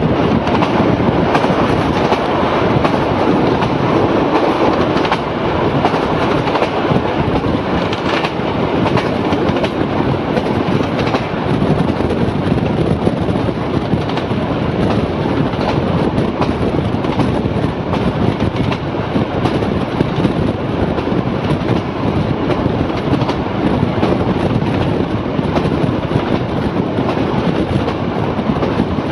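Heritage passenger train running steadily at speed, with a continuous rumble of carriage wheels on the rails and clickety-clack over the rail joints, heard from an open carriage window.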